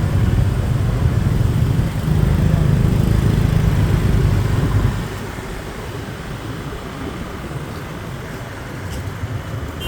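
Road traffic noise in city streets, with a heavy low rumble for about the first five seconds that then drops away to a steadier, quieter hum.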